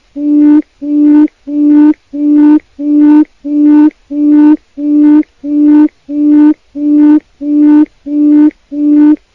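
Wild quail call: a low hooting note repeated steadily and evenly, about three notes every two seconds, each note about half a second long and unvarying in pitch.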